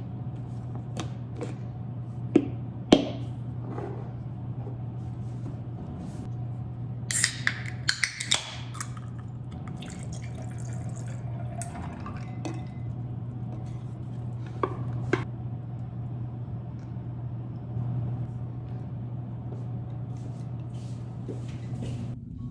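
Kitchen work over a steady low hum: scattered clinks and knocks, a quick cluster of them about seven to eight seconds in, with water dripping.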